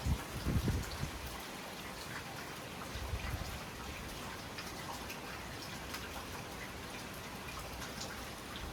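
Steady rain falling in a thunderstorm, with scattered drops ticking on surfaces and a few low thumps in the first second.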